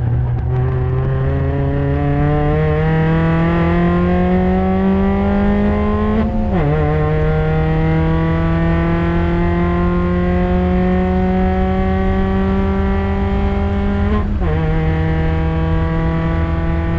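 NCP91 Toyota Yaris race car's 1.5-litre four-cylinder engine pulling hard under load, its pitch climbing slowly through each gear and dropping sharply at two upshifts, about six and fourteen seconds in.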